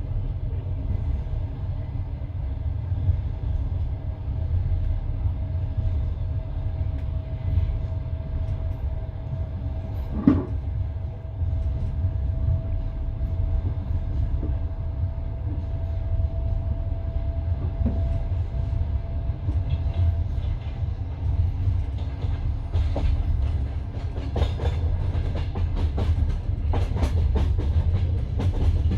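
Passenger train carriage rolling along, heard from inside: a steady low rumble with the clickety-clack of wheels over rail joints. There is one sharp knock about ten seconds in, and quicker clicks and rattles toward the end.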